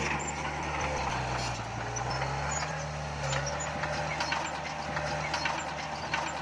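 Heavy earthmoving machinery's diesel engine running steadily under load, its pitch shifting slightly, with scattered clanks and rattles.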